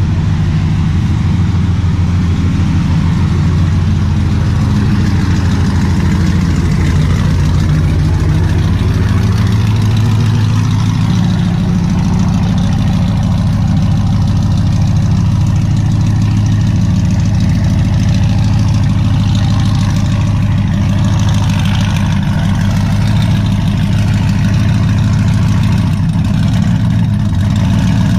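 V8 engine of a 2014 GMC Sierra Denali with headers and a tune, idling steadily, heard from inside the cab.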